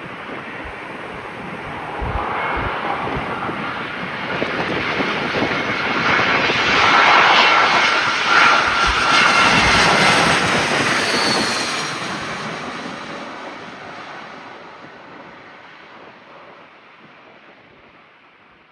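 Jet airliner climbing out overhead after take-off: the engine roar builds, peaks about halfway through with a whine over it, then fades away as it passes.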